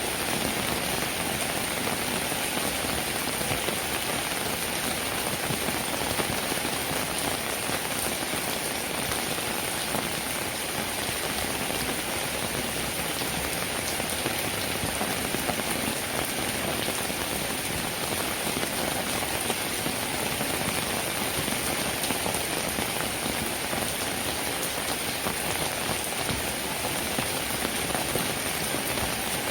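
Steady rainfall: a dense, even patter of raindrops that holds without let-up.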